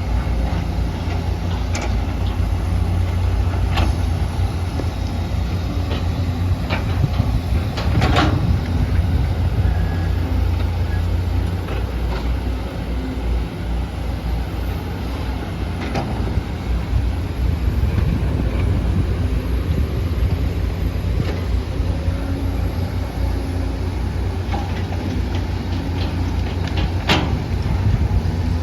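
Excavator's diesel engine running steadily under load, with occasional sharp knocks. The loudest knocks come about eight seconds in and near the end.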